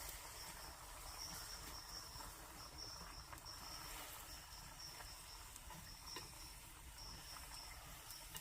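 Faint insect chirping: short high-pitched trills repeating in groups with brief gaps, over a low steady hiss, with a few faint clicks.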